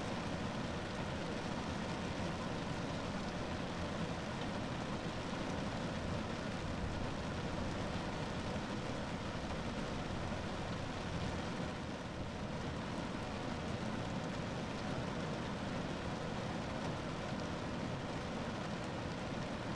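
Steady rain falling on a car roof: a dense, even patter that holds at one level throughout.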